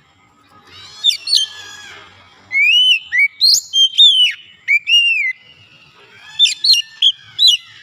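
Oriental magpie-robin (kacer) singing: three phrases of clear whistled notes, gliding up and down, with sharp chirps in between and short pauses between the phrases.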